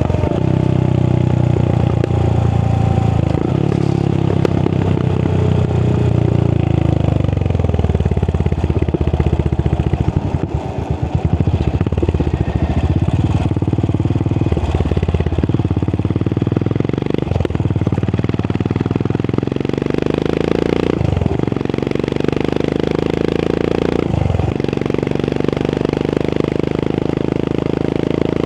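Royal Enfield Continental GT 535's single-cylinder engine running through an aftermarket AEW exhaust while riding on the road. The revs fall away over the first several seconds and the note turns rough and uneven around ten seconds in. It then settles into steadier running, broken by three brief dips in the note.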